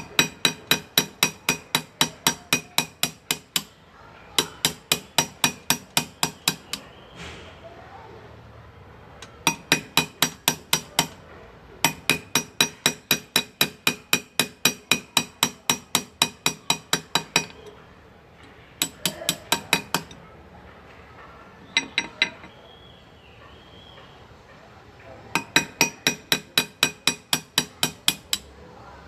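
Hand engraving: a small chasing hammer tapping a steel graver into a metal motorcycle part, sharp ringing taps at about four a second in runs of a few seconds with short pauses between.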